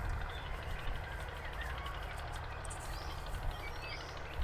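Steady outdoor ambience with a low rumble and a few brief bird chirps.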